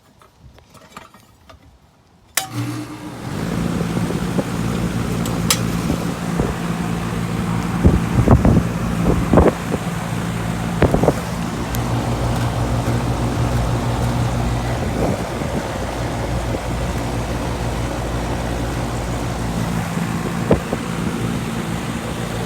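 Goodman central air conditioner's outdoor condensing unit starting up about two seconds in. After a sudden switch-on, the compressor hum and the condenser fan run steadily, with a few sharp knocks partway through.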